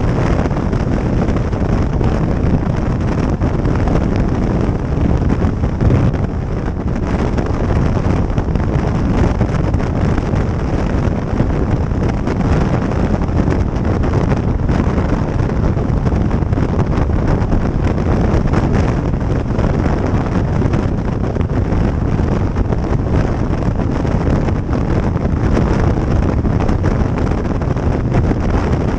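Steady, loud wind rushing over the microphone of a motorcycle under way, with the bike's running noise mixed into it.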